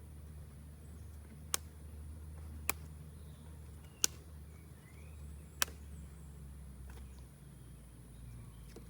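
Four sharp snaps or clicks, one every second or so, over a low steady rumble.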